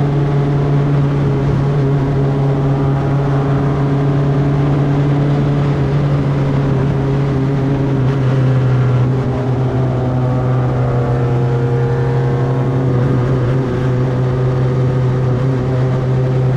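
Single-seater race car engine running at steady, moderate revs on the pace lap, picked up close by engine-mounted microphones. The pitch shifts slightly a few times but no hard acceleration is heard.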